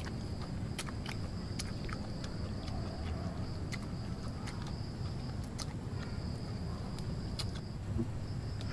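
Someone chewing young tree twigs close up, small crisp crunches and clicks scattered throughout, over a steady high-pitched insect drone.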